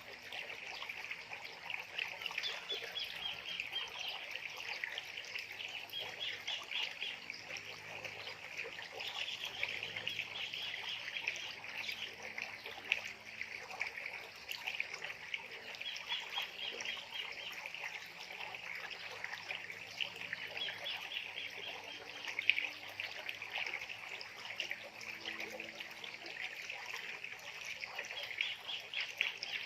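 Many wild birds calling at once, a dense chatter with rapid call series recurring every few seconds.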